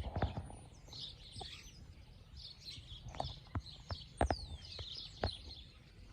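Small birds chirping and twittering, many short calls overlapping, with one falling whistle a little past the middle. A few sharp knocks sound irregularly through it and are the loudest things heard.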